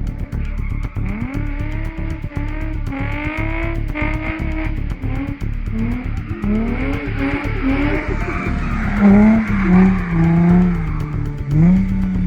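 Nissan 350Z's V6 engine revving up and down hard under drifting, its pitch rising and falling over and over, with tyre squeal from about eight seconds in.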